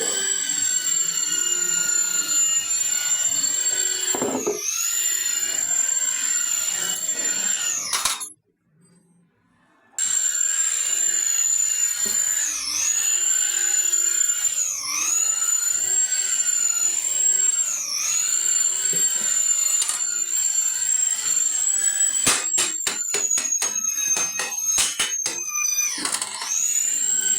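Electric power tool running with a high whine, its pitch sagging briefly every second or two as it takes load. It cuts out for about two seconds about a third of the way in, and there is a quick run of sharp clicks near the end.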